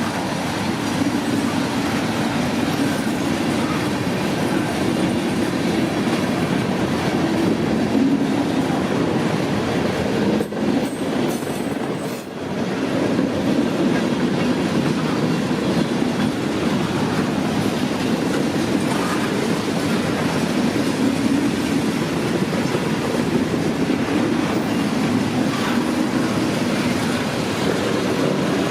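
Freight cars of a CSX manifest train rolling past: a steady rumble with wheel clatter over the rail joints, briefly dipping about eleven seconds in.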